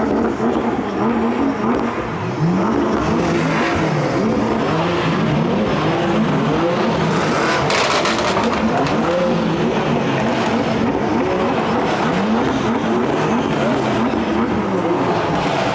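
Car engines revving over and over, pitch climbing and dropping in quick repeated rises, several overlapping at once.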